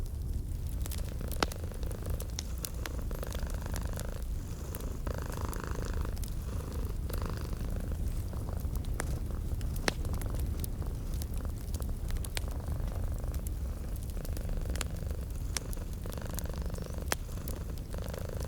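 Domestic cat purring steadily, mixed with a wood fire crackling in a fireplace with scattered sharp pops.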